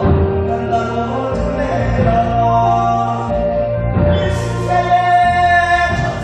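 A voice singing a song over instrumental backing music, with long held notes.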